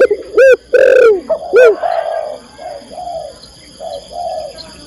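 Spotted dove cooing, a female's call to a male. Three loud arching coos come in the first second and a half, followed by a run of softer, quicker coo notes.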